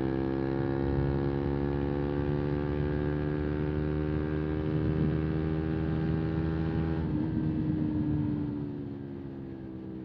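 125 cc single-cylinder motorcycle engine running at steady revs, its pitch slowly sinking. It goes quieter about seven seconds in.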